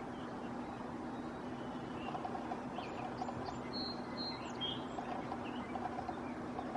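Distant birds giving a few short chirps and whistled notes, mostly in the middle stretch, over a steady outdoor hiss with a low hum.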